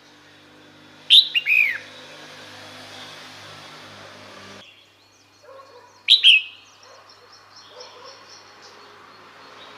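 Female red-whiskered bulbul calling: two short bursts of a few sharp notes that fall in pitch, about five seconds apart, over faint chirping. It is a female's call of the kind used to lure males.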